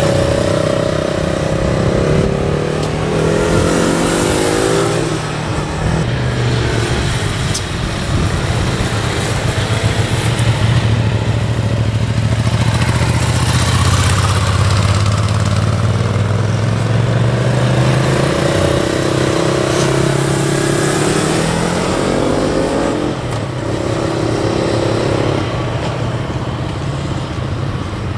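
Motorcycle engines running, revving up and down so the pitch rises and falls every few seconds, with a higher engine note that comes and goes.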